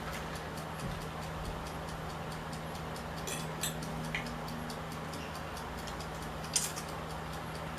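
Quiet eating at a table: a few sharp clicks of a fork and mussel shells against a plate, the loudest about two thirds of the way through, over faint steady ticking and a steady low hum.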